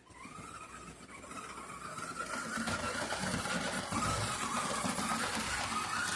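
Tyco HO-scale diesel locomotive's small electric motor starting up and running on the track: a whine that rises in pitch and gets louder over the first two seconds, then holds steady over the clatter of wheels on rails. The locomotive has just been serviced and is still breaking in.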